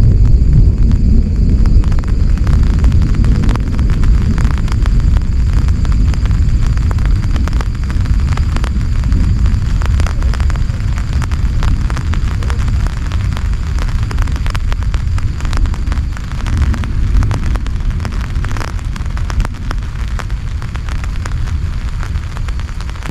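Heavy rain falling hard, a dense crackle of drop impacts over a deep steady rumble.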